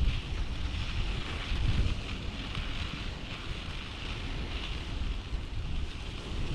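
Wind buffeting the microphone of a camera riding on a moving bicycle: an uneven, gusting low rumble over a steady high hiss.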